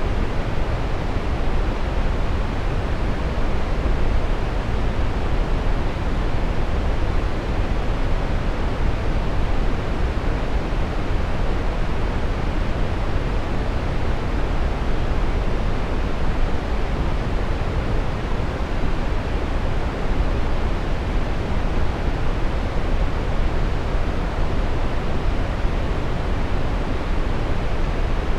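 Steady synthetic brown noise: an even, deep rushing hiss, heaviest in the low end and rolling off in the highs, without change.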